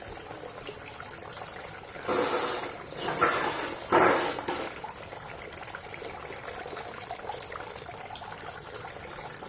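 Homemade water fountain splashing and trickling steadily, with three louder surges of splashing between about two and four and a half seconds in.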